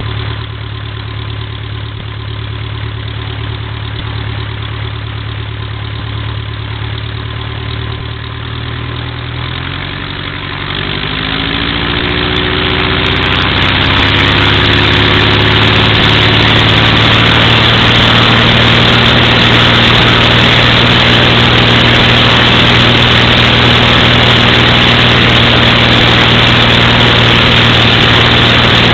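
Continental O-200 air-cooled flat-four aircraft engine and propeller running at idle on its first run. About ten seconds in, the throttle is opened and the engine note rises over a few seconds, then holds steady, louder, at higher rpm for the run-up.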